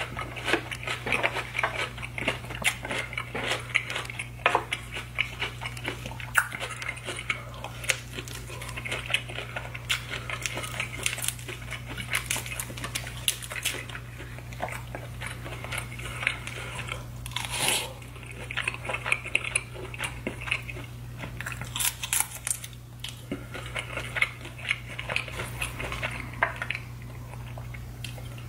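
Close-miked chewing and wet mouth smacking while eating a saucy seafood boil, with many sharp clicks throughout.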